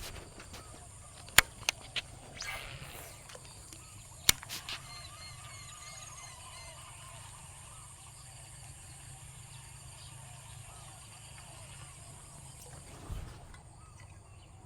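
Several sharp clicks or taps in the first few seconds, then faint bird chirps repeating over a steady outdoor background with a thin high hiss.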